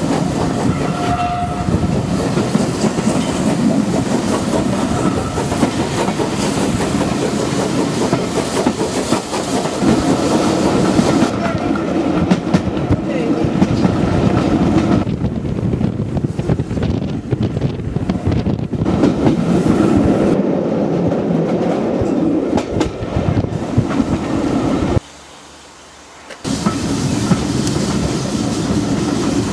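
Heritage steam train's carriages running along the track, the wheels clattering over the rails in a steady, loud din. The sound drops away suddenly for about a second and a half near the end, then returns.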